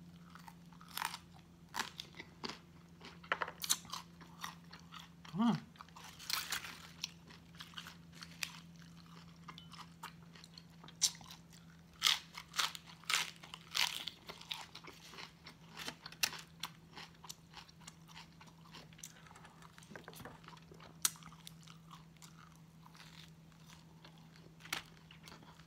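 Close-up crunching and chewing of raw cauliflower and crisp leaf lettuce, in irregular bites. The loudest crunches come about a quarter and about half of the way through.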